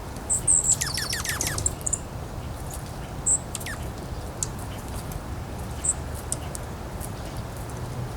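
Small songbirds calling: short high chirps scattered throughout, and about a second in a quick run of five or six notes that each slide steeply down in pitch. Underneath is a steady low rumble of wind.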